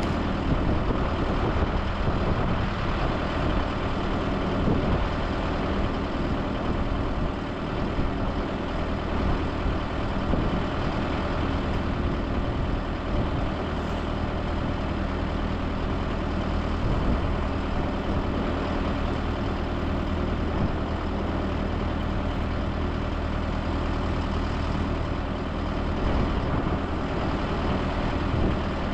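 Heavy farm-vehicle engine running steadily at constant speed, an even drone with no rise or fall.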